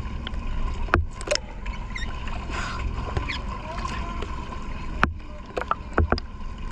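Small fishing boat at sea: a steady low rumble of wind and water, with a thin steady whine, broken by a few sharp knocks.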